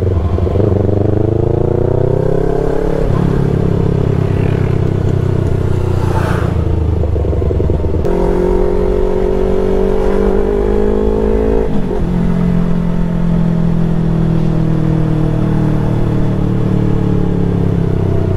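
Yamaha R3's parallel-twin engine pulling under way. Its pitch climbs as it accelerates, then drops sharply at gear changes a few seconds in and again about twelve seconds in.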